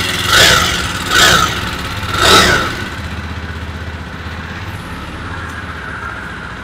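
Jawa 42 Bobber's 334 cc single-cylinder engine idling, blipped three times in quick succession within the first two and a half seconds, then settling back to a steady idle.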